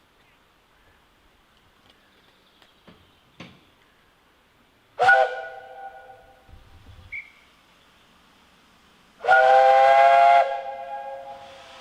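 Narrow-gauge steam locomotive's whistle: a short toot about five seconds in, then a longer blast of about a second just after nine seconds, each dying away slowly.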